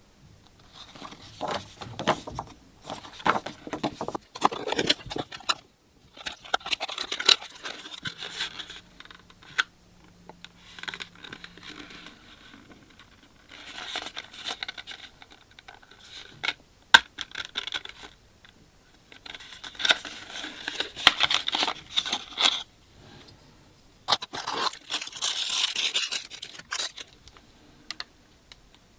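Packaging being handled during unboxing: tearing and crinkling of wrapping, with scrapes and sharp clicks. It comes in five or six bursts of a few seconds each, with short pauses between them.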